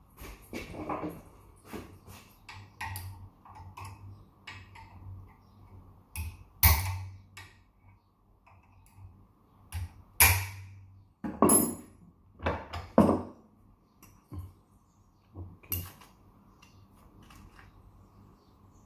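Metal tools clinking and knocking on a split AC fan motor's shaft and ball bearing during bearing removal: a run of light clinks with several sharper knocks, loudest between about six and thirteen seconds in.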